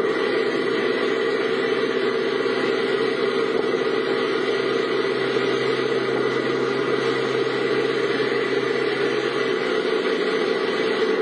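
Steady engine and road noise of a car driving, heard from inside the vehicle, even throughout.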